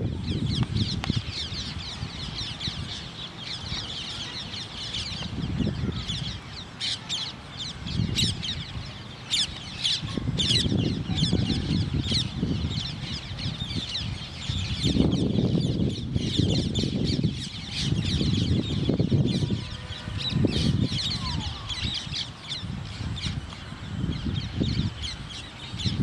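Many birds chirping and twittering at once, a dense steady chatter of short high calls, with a low rumble that swells and fades every few seconds.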